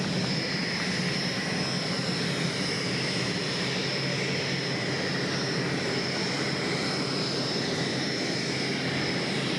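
Twin gas turbines of a modified pulling tractor running steadily, a high whine over a low drone.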